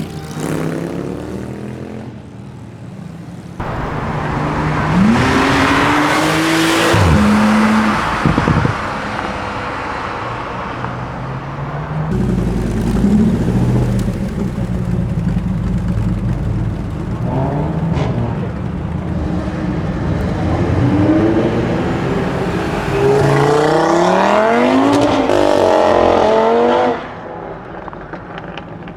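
Several performance cars accelerating hard one after another, their engines revving up with the pitch climbing and dropping back at each gear change. A deeper, louder engine comes in about twelve seconds in, and the last acceleration cuts off suddenly near the end.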